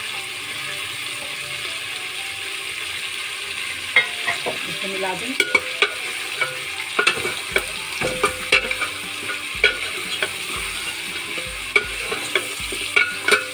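Sliced onions and bone-in mutton sizzling in hot fat in a metal pot once the meat's juices have cooked off. From about four seconds in, a spatula scrapes and knocks against the pot as the onions are stirred in.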